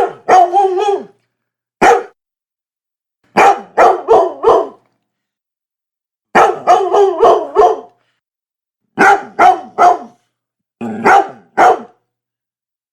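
A dog barking in short runs of sharp barks, one to six at a time, with clean silent gaps between the runs.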